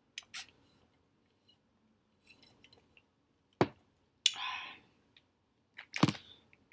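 Close-up eating sounds of chewing fried hot wings: a few sharp mouth clicks and cracks, with a short crunchy burst about four seconds in.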